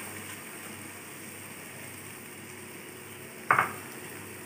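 Onion-tomato masala sizzling steadily in a kadai as it sautés, with one sharp knock of a utensil against the pan about three and a half seconds in.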